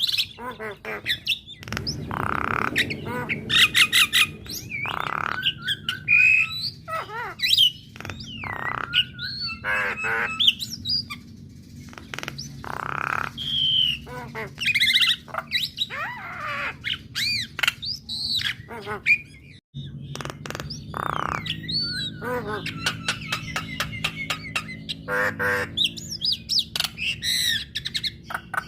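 Female Javan myna (jalak kebo) singing a long, varied run of harsh squawks, whistled notes and rapid chattering rattles, with a brief break about two-thirds through.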